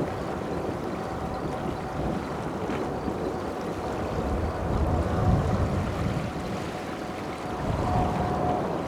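Wind buffeting the microphone, in gusts, over the steady distant rumble of a departing Boeing 777-300 airliner's jet engines.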